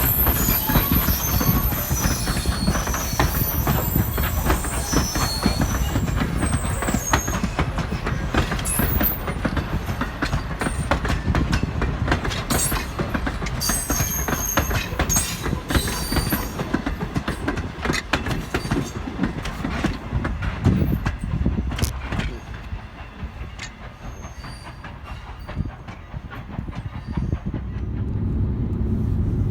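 A Strasburg Rail Road train behind steam locomotive No. 89 rolling past. The wheels click over the rail joints and squeal in high tones through the first half. The sound dies down about 23 seconds in and picks up again near the end.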